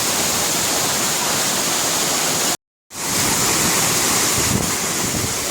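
Waterfall pouring: a steady, loud rush of falling water, broken by a brief dropout to silence a little past halfway, where two clips are joined.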